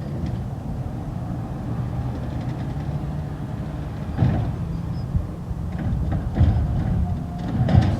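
Garbage truck's diesel engine running steadily during collection, with a few sharp clanks partway through and near the end.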